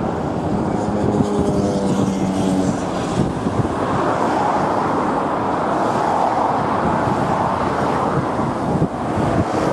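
Steady road-traffic noise with wind buffeting the microphone. A few faint engine tones sound in the first three seconds, then a broader rushing roar swells from about four seconds in.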